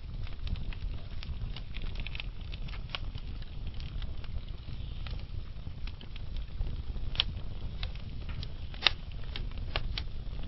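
Wood fire burning in a fireplace: a steady low rumble of flame with frequent sharp crackles, and two louder pops in the second half.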